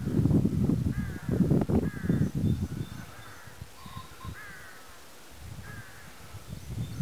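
Birds calling outdoors: about six short, arching, harsh calls spaced through, with low rumbling noise on the microphone for the first three seconds.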